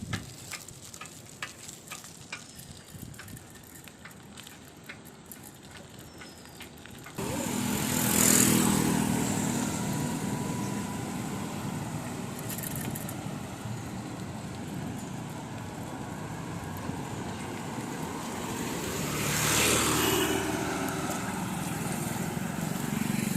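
Faint crackling for several seconds, then road traffic comes in abruptly: a steady rumble of engines with vehicles passing close, loudest about a second after it starts and again near the end.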